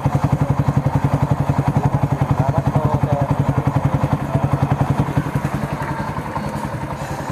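Motorcycle with an aftermarket exhaust and its silencer insert fitted, idling with a steady rapid low pulse that eases slightly near the end.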